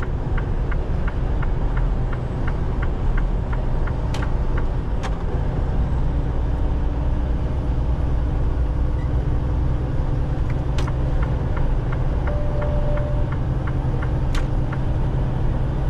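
Semi-truck's engine running steadily, heard from inside the cab. A turn-signal indicator ticks evenly, about three ticks a second, over the first few seconds and again past the middle.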